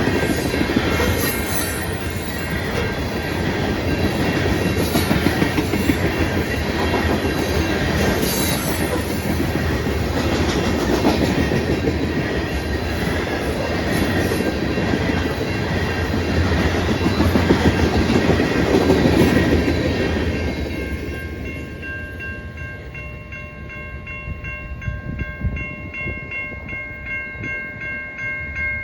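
Norfolk Southern coal train's cars rumbling and clattering over the rails through a grade crossing. About twenty seconds in, the rumble fades as the end of the train passes, leaving the crossing's warning bell ringing in a steady pulsing rhythm.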